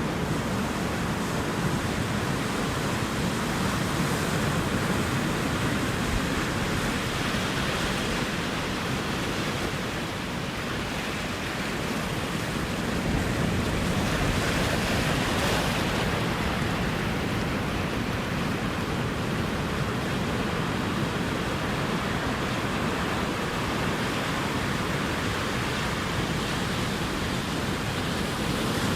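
Ocean surf: a continuous rushing wash of waves on the shore, easing slightly about ten seconds in and swelling again a few seconds later.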